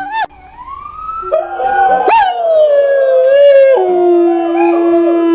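A dog howling: one long howl that rises in pitch, peaks about two seconds in, slides down, then holds a steady lower note.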